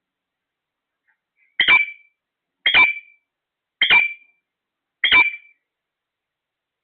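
A parrot calling four times, short loud calls a little over a second apart.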